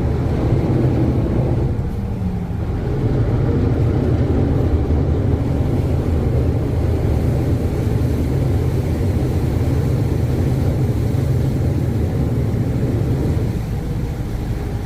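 River boat's engines running as it pulls away from the pier: a steady, low rumble that grows a little louder a few seconds in.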